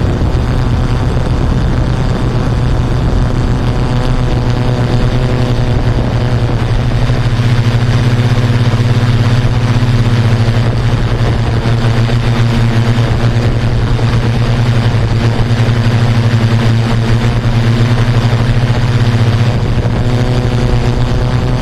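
Yuneec Typhoon Q500 4K quadcopter's electric motors and propellers humming steadily in flight, a loud drone with small shifts in pitch.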